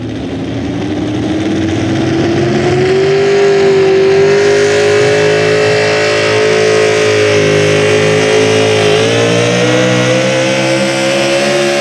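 Pulling truck's engine at high revs under load down the track: the pitch rises over the first few seconds, holds, dips briefly about nine seconds in and climbs again.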